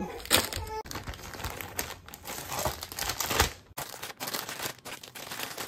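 Plastic packaging of frozen food crinkling and rustling as packets are handled and sorted out of a freezer, with irregular small knocks and clicks.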